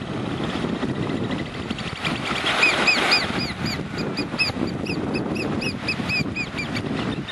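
Oystercatchers piping: a rapid series of short, high, arched notes that starts about two seconds in and runs for about four seconds, over steady wind and surf.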